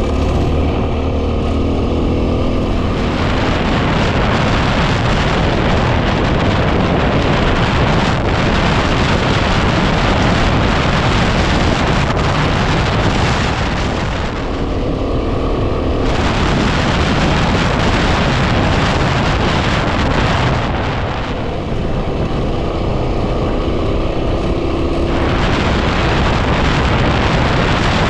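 Heavy wind buffeting on the microphone over the running 250 cc single-cylinder engine of a Yamaha WR250R trail bike under way. The engine note comes through more clearly three times, when the wind briefly eases.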